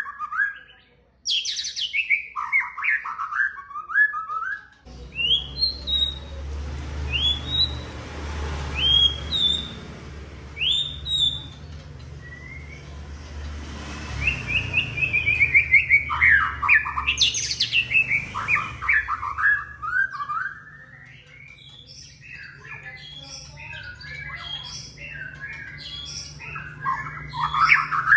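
White-rumped shama (murai batu) singing: quick falling runs of notes alternating with short rising whistles, turning into dense chattering near the end. A steady low hum joins about five seconds in.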